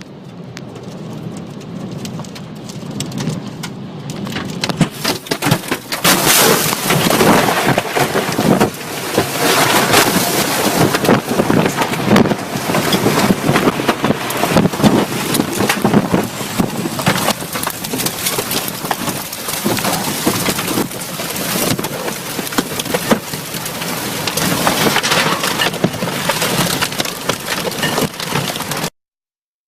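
Loud rushing storm wind and rain, building over the first five seconds or so and then surging in gusts. It cuts off suddenly near the end.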